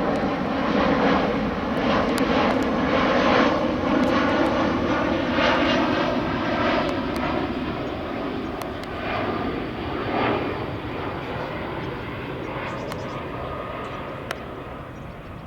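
easyJet jet airliner on its landing approach, passing by. Its engine noise carries whining tones that slide down in pitch as it goes past, and it slowly fades toward the end.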